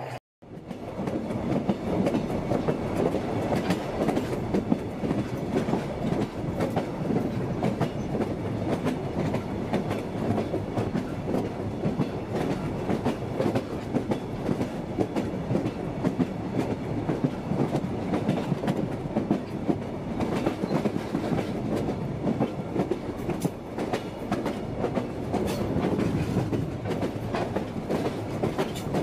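Railroad car rolling along the track: a steady rumble with steel wheels clicking over the rail joints.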